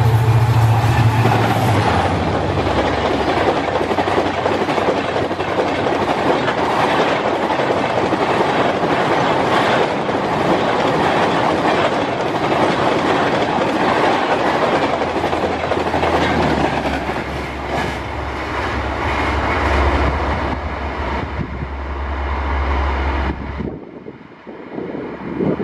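Coaches of an air-conditioned superfast express train rushing past at about 130 km/h, wheels clattering over rail joints. The noise drops away suddenly near the end as the last coach goes by.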